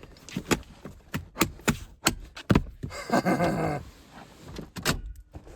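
Knocks and clicks of a car seat's headrest and seat-back parts being pushed and fitted into place, with a longer rasping, straining noise about three seconds in.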